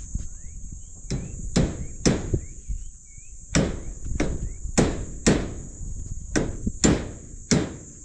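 A hammer driving nails: about ten sharp blows, mostly in pairs half a second apart. A steady high insect trill and a few short bird chirps run underneath.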